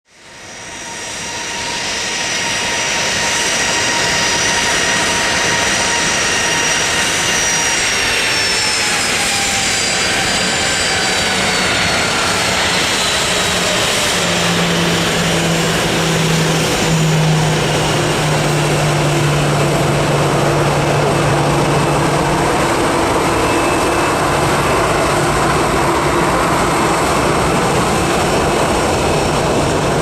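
Jet aircraft engines running loud, a roar with a high turbine whine that falls in pitch as the plane goes by, settling into a steady, deeper roar.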